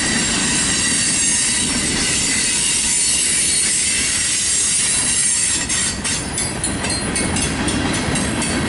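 Freight cars of a mixed manifest train rolling past on steel wheels: a low rumble under a steady, high-pitched whine of wheels on the rails. About six seconds in, the high whine starts to flutter and break up rapidly.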